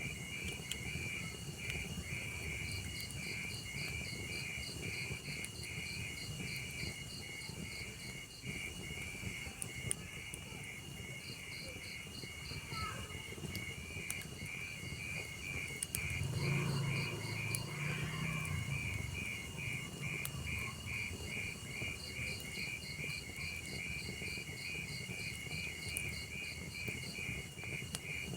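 Crickets chirping in a rapid, even pulsing rhythm throughout, over a low steady rumble with scattered small clicks of a log fire crackling. A lower sound swells for a few seconds a little past the middle.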